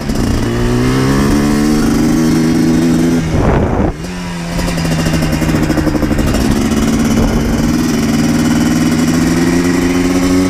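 2000 Yamaha Blaster 200's single-cylinder two-stroke engine accelerating under way. The pitch rises, breaks with a short drop in loudness about four seconds in as it shifts up a gear, then climbs slowly again.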